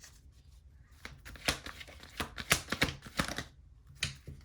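Tarot cards being handled and shuffled: a quick run of sharp card snaps and slides, with one last snap near the end.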